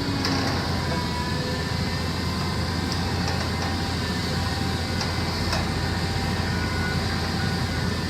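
Heavy vehicle engine running steadily, a constant low rumble with a few faint clicks and knocks on top.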